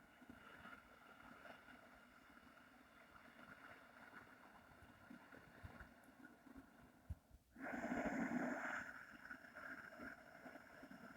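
Slow, deliberate breathing through a constricted throat, a soft steady hiss, as in Daoist 'fire' abdominal breathing. The breath turns over after a brief lull about seven seconds in, and the next breath is louder.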